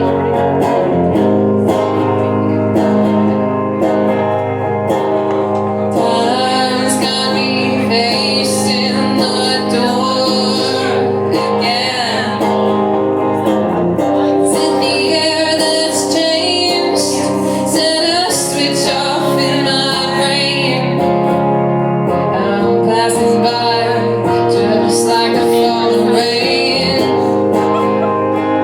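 Live band performing a song: guitar with sustained chords, joined about six seconds in by a singing voice that carries on through most of the rest.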